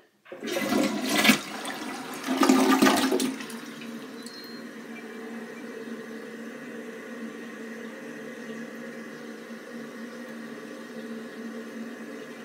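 Glacier Bay dual-flush toilet flushing: a loud rush of water for about three seconds, then the tank refilling with a steady hiss and a faint hum from the fill valve.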